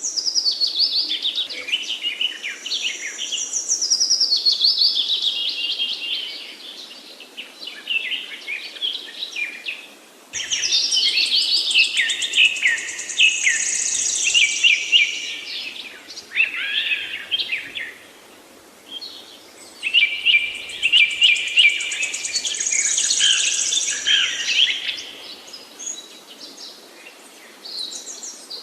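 Songbirds singing in a forest: rapid, varied song phrases full of quick trills and whistles, coming in three long bouts separated by short pauses.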